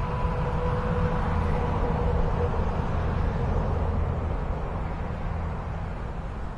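Propeller whine of a small electric RC Twin Otter in flight, a thin steady tone that fades out a few seconds in as the plane flies away. Wind rumbles on the microphone throughout.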